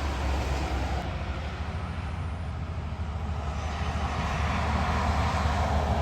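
Heavy vehicle running on the road: a steady low rumble with tyre noise, growing louder toward the end.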